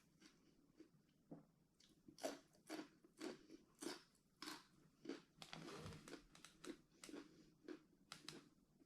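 Faint close-up chewing of crunchy food, with a crisp crunch about twice a second.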